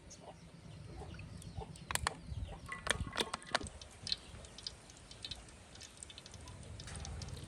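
Chickens clucking, with a cluster of sharp clicks and knocks about two to three and a half seconds in, over a low steady background hum.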